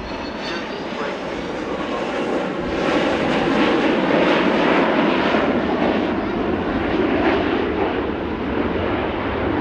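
Boeing 727-200 trijet passing low in a flypast, its jet engine noise a wide rush that swells to its loudest about three seconds in and holds there.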